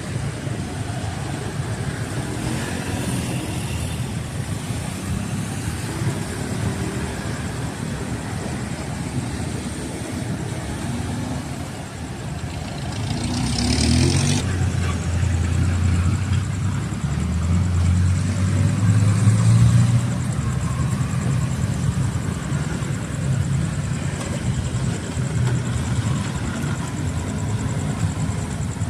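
Road traffic engines idling and passing. About halfway through, a heavier engine grows louder with a deep hum for several seconds, then eases back into the steady traffic rumble.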